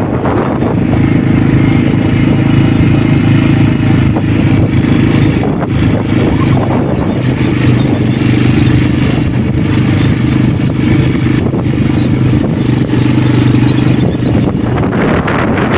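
Quad bike engine running steadily under load, with a rough, crackling noise over it.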